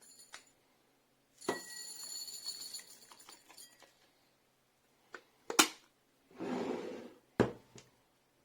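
Sharp plastic clicks and handling noises from a handheld vacuum cleaner being worked by hand, with short bursts of rustling between them. The loudest click comes about halfway through.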